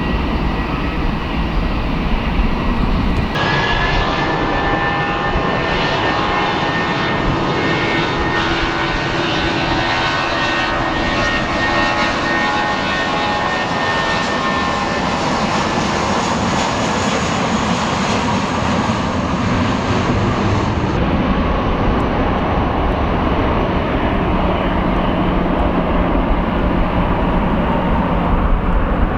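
Airbus A320 jet taking off from a wet runway, its engines at takeoff power with a steady jet noise. Several high whining tones fall slowly in pitch as it passes. A sudden change in the sound about three seconds in marks a cut from the previous departure.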